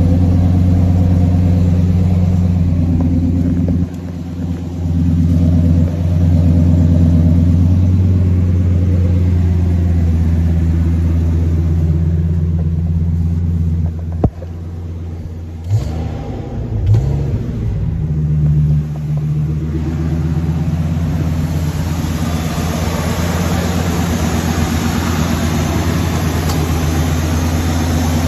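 V10 engine idling cold through an MBRP aftermarket exhaust, a steady, throaty idle. Near the middle the level dips and the pitch swings up and down a few times. The owner hears no exhaust manifold leaks or unusual knocks in it.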